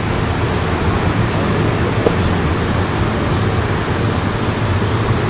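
Steady road and wind noise from a motorcycle under way, with a low engine hum underneath.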